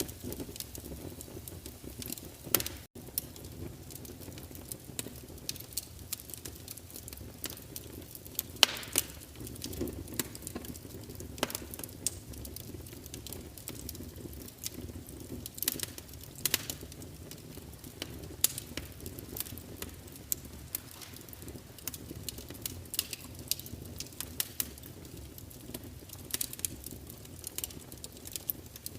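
Wood fire crackling in a fireplace: irregular sharp pops and snaps over a low, steady rumble of the burning logs, with a brief dropout about three seconds in.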